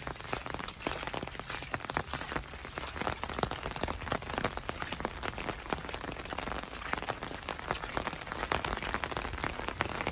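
Heavy rain falling, with a dense patter of many sharp drop hits close by.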